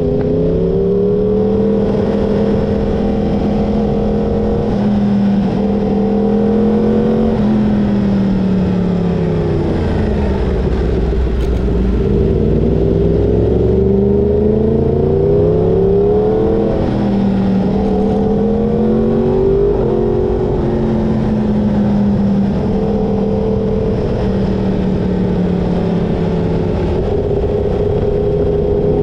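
Yamaha crossplane inline-four sport-bike engine heard from onboard while riding. The revs hold steady, then fall and climb again as the throttle is closed and reopened through corners, over a steady rush of wind and road noise.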